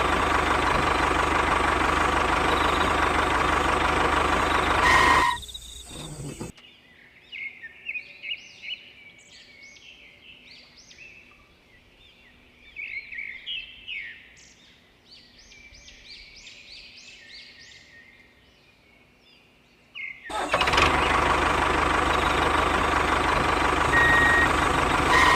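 A steady, loud engine-like running noise from the DIY model tractor stops abruptly about five seconds in. Birds chirp over a faint hum for about fourteen seconds. Then the loud running noise starts again abruptly near the end.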